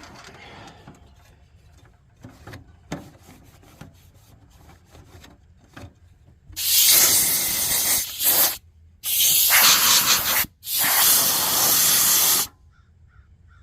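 Compressed-air blowgun blasting in four loud hissing bursts, after a few seconds of faint handling clicks.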